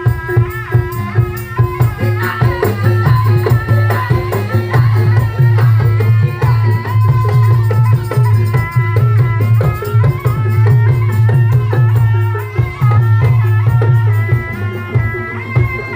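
Live Javanese folk music of the kind played for a Kendal dawangan/barongan troupe: a dense run of drum and percussion strokes under a shifting melody line, over a steady low drone.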